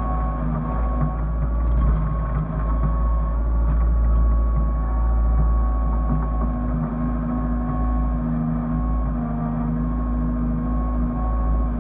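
Hyundai excavator's diesel engine running steadily: a deep rumble with a steady high whine over it.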